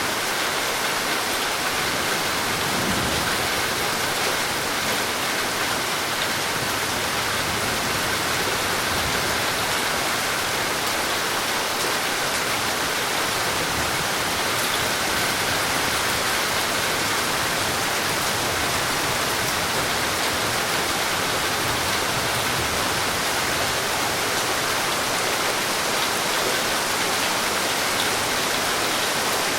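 Steady, heavy rain falling, an even hiss of countless drops with no breaks.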